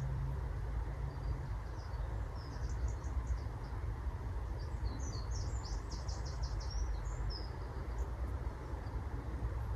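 A small songbird gives a few short, high chirps, then a quick run of them about five seconds in, over a steady low rumble.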